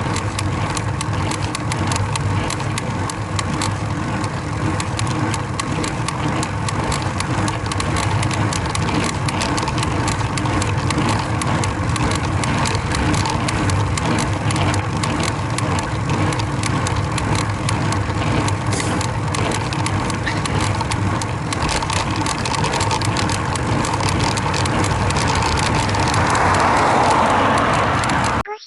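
Bicycle pedalled hard under load, with a steady rushing noise and many small creaking clicks from the drivetrain. The creak is not cured by a new chain; it is the sign of a loose rear derailleur hanger that is missing one of its two fixing bolts.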